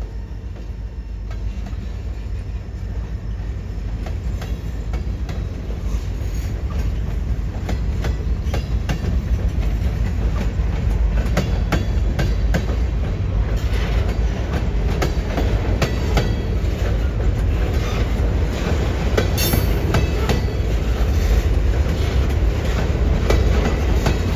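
Freight train rolling past with a steady low rumble that grows louder, wheels clicking over the rail joints more and more often from about a quarter of the way in.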